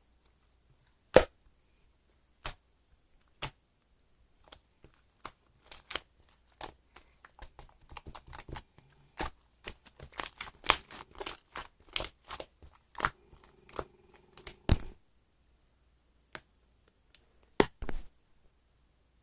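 Irregular clicks, taps and rustles of small objects being handled, sparse at first and coming thick and fast in the middle, with one sharp knock about a second in.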